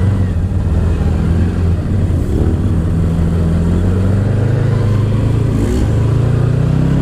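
ATV engine running as the machine is ridden, with engine speed rising in the second half.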